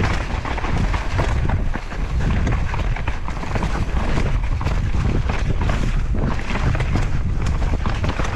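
Wind rushing over the microphone of a camera on a fast downhill mountain-bike descent, a heavy steady rumble. Through it come frequent short clicks and rattles from the Devinci Chainsaw downhill bike over rough trail.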